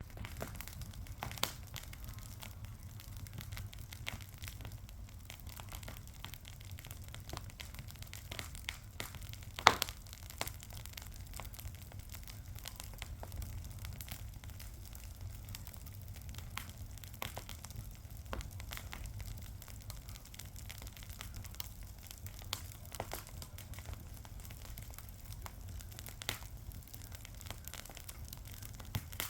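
Fire crackling, with irregular snaps and pops and one sharp, louder pop about ten seconds in, over a low steady rumble.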